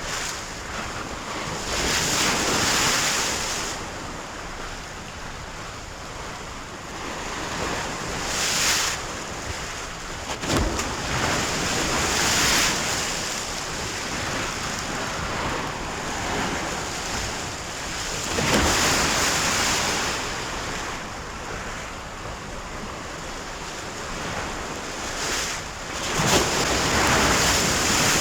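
Sea waves surging and washing in, each swell rising and falling every few seconds, with wind noise. A single sharp knock about ten seconds in.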